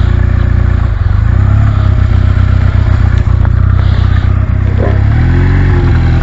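Motorcycle engine running after a roll start on a flat battery, with a brief rev that rises and falls about five seconds in.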